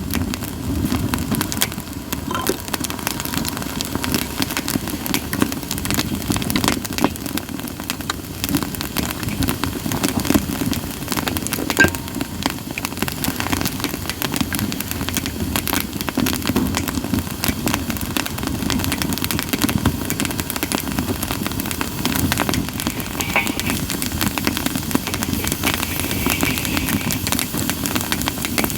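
Split sawtooth oak (kunugi) firewood burning in an open campfire, crackling and popping continuously over the low rush of the flames. Toward the end there is a short faint hissing whistle from the wood.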